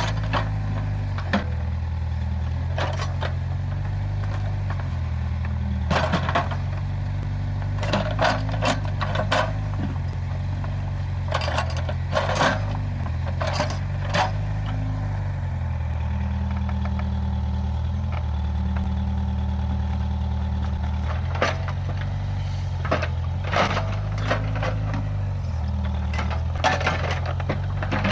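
Case 580G backhoe loader's engine running steadily, its pitch stepping up and down several times, with frequent sharp clanks and knocks from the working machine.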